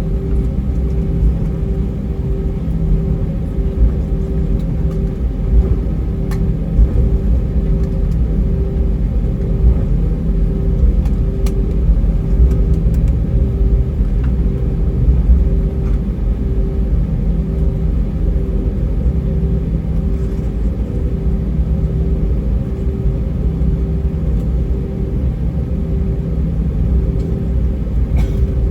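Airbus A320 cabin noise during taxi: a steady low rumble from the IAE V2500 engines at taxi thrust and the wheels rolling over the taxiway, with a hum that pulses a little over once a second and a few faint clicks.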